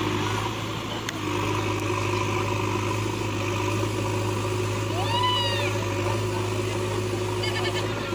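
Heavy machine's diesel engine running steadily at a low, even hum. About five seconds in, a single short high call rises and falls over it, and a quick run of high chirps comes near the end.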